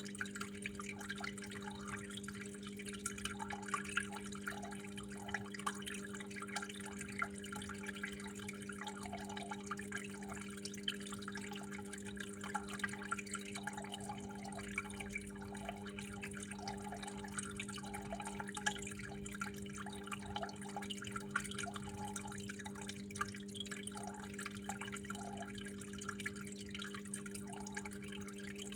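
Water trickling and dripping steadily, with many small irregular plinks, over a constant low hum.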